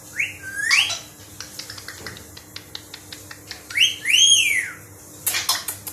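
A pet bird giving sweeping whistles, first a rising pair and then an arched rise-and-fall pair, over a scatter of quick light clicks and taps, with a couple of loud harsh squawks near the end.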